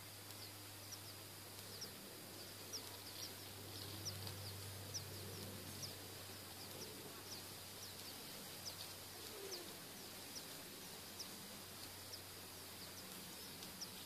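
Small birds chirping: short, thin, high-pitched notes repeating irregularly, about one or two a second, over a faint steady hiss and low hum.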